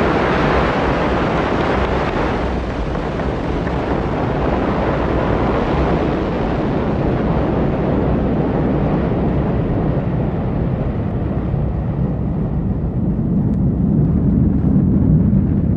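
Ariane 5 rocket's engines at full thrust just after liftoff: a loud, steady rumble without a pitch, which grows duller in the second half as the treble fades.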